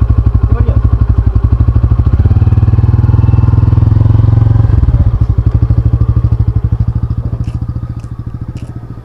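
An engine running with a steady, fast, even throb that grows quieter from about seven seconds in.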